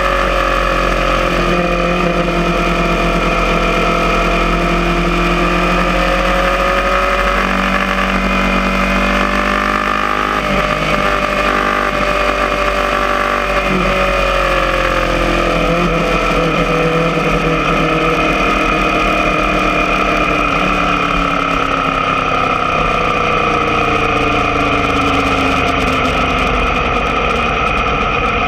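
Aprilia Tuono motorcycle engine running at a fairly steady speed, its pitch drifting slowly up and down with no hard revving, easing down near the end.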